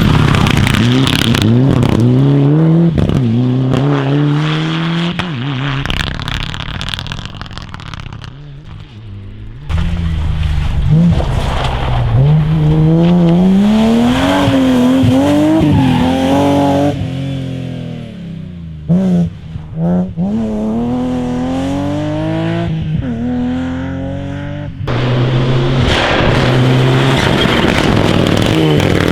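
Rally cars at full throttle on a stage, one after another. Their engines rev up and drop back through gear changes and lifts, and the sound changes abruptly from one car to the next.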